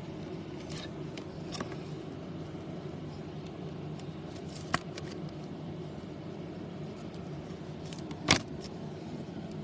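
Faint rustles and clicks of trading cards being handled, over a steady low background hum; a short sharp click about five seconds in and a louder one near the end.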